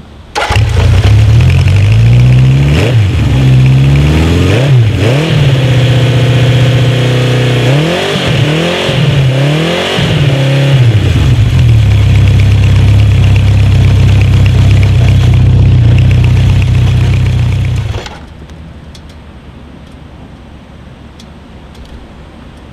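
Honda CB750 K2's air-cooled inline-four engine starting up, blipped several times so the pitch rises and falls, then running steadily before being switched off suddenly near the end.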